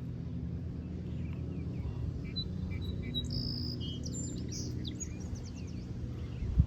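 Songbirds chirping and calling in short, quick high notes over a steady low hum, with a brief thump near the end.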